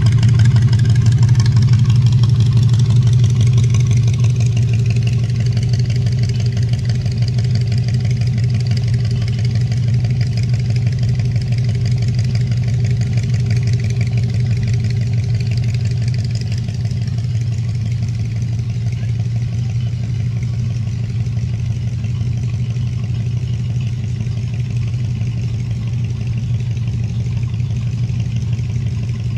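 Old car engines idling and rolling by at walking pace, a steady low engine drone. It is loudest at the start as a rat-rod pickup pulls away, then eases off over the first half or so.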